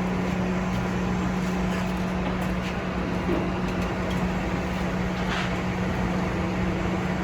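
A steady mechanical hum with one constant low tone, with a few faint knocks over it.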